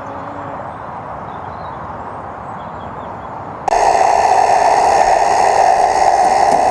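Steady background noise, then, a little past halfway, a loud steady whir made of several fixed tones cuts in abruptly and holds.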